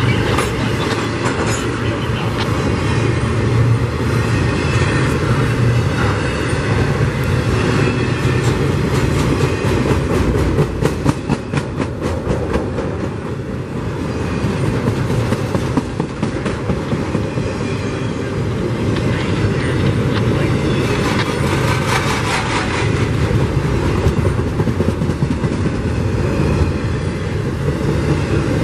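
Intermodal freight train cars carrying highway trailers and containers rolling past close by: a steady heavy rumble with rapid clickety-clack of wheels over the rail joints. It grows briefly quieter about halfway through, then picks up again.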